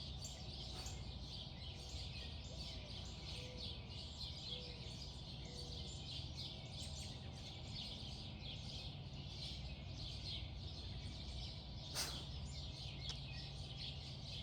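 Many birds chirping and singing in a dense chorus over a low, steady rumble. A single sharp click comes about twelve seconds in.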